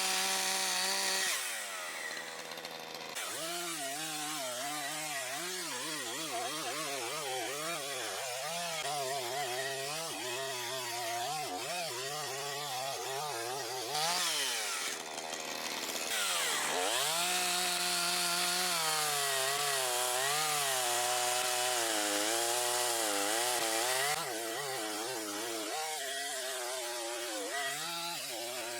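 Makita DCS5121 50 cc two-stroke chainsaw running continuously, its engine speed wavering up and down. It runs louder and higher at the start and again about fourteen seconds in, and its revs dip sharply and climb back about sixteen seconds in.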